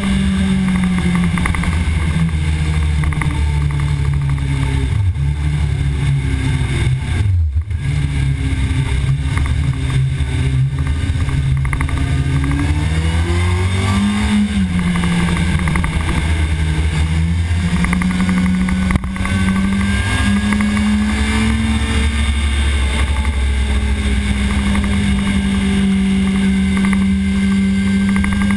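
Sport motorcycle engine running hard at high revs, heard from the camera mounted on the bike. The engine note cuts out briefly about a quarter of the way in, then climbs and drops in pitch around the middle before holding steady again.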